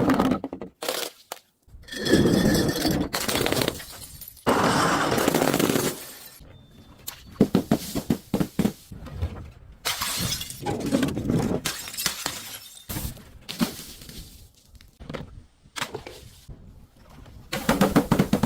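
Glass being crushed and shattering: an irregular run of sharp cracks, crunches and breaking-glass sounds, with a few longer stretches of grinding crunch.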